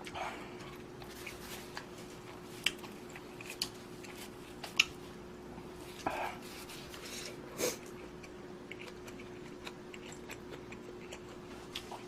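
Eating noises: chewing budae-jjigae ramen, with a handful of sharp clicks of utensils against the bowl, the loudest about five seconds in. A faint steady hum runs underneath.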